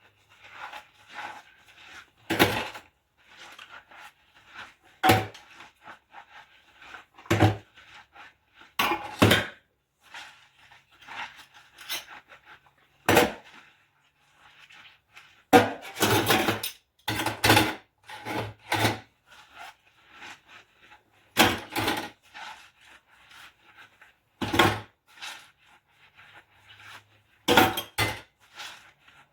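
Dishes and utensils being handled during hand washing: repeated clattering knocks as pieces are picked up and set down, with faint scrubbing and rubbing in between.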